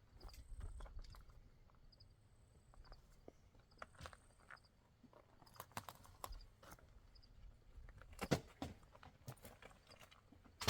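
Faint, scattered clicks and crunches, growing busier and louder in the second half, over a faint high chirping in pairs about once a second.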